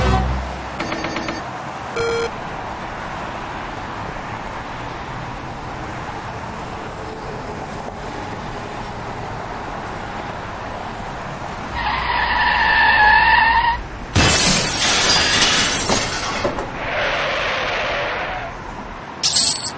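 Steady road noise from a moving car, then a high squeal for about two seconds, ending in a sudden crash impact with a burst of breaking and shattering noise.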